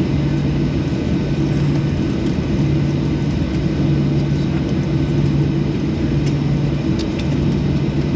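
Steady drone inside a Boeing 737-800 passenger cabin on the ground after landing: an even rumble with a low hum held on one pitch and a few faint clicks.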